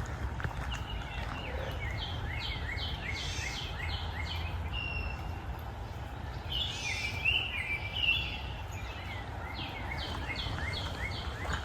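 A songbird singing two phrases of quick repeated down-slurred notes, with a short pause between them, over a steady low background rumble.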